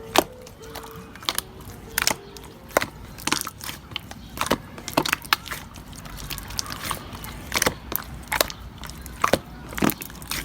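Slime being pressed and squished by hand, making irregular sharp clicks and crackly pops.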